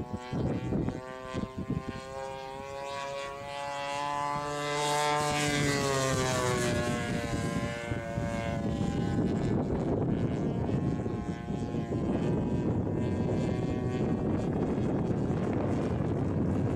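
Chainsaw-engined BigLift light aircraft flying past, its small two-stroke engine and propeller growing louder and then dropping in pitch as it passes. It is followed by a steady, rough rush of noise.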